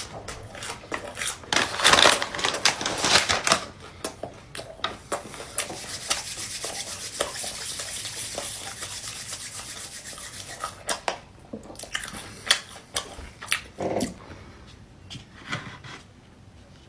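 Close-up handling of food and its packaging: crinkling and rustling with scattered clicks and taps, and a longer stretch of steady crinkling from about five to eleven seconds in.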